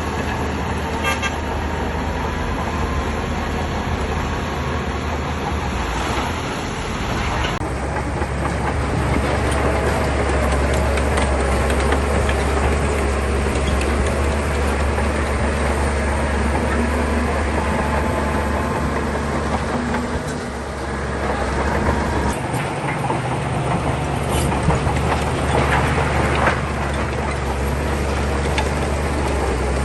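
Heavy diesel engine of a Shantui bulldozer running steadily while it works, with a brief dip in level about two-thirds of the way through.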